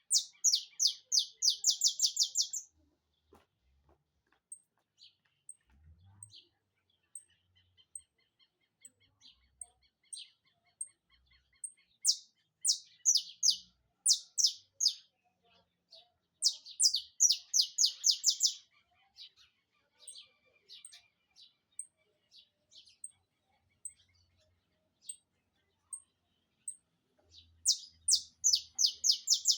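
Saffron finch singing in rapid-fire bursts, each a fast run of sharp, high, repeated notes lasting two to three seconds; four such bursts, with faint regular high chips and a soft trill in the pauses between them.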